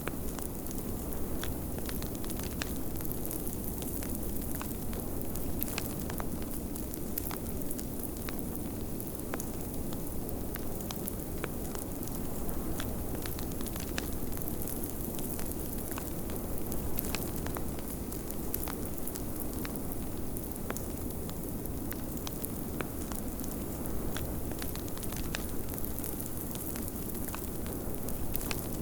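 Wood fire crackling, with frequent small sharp pops, over a steady low rush of blizzard wind.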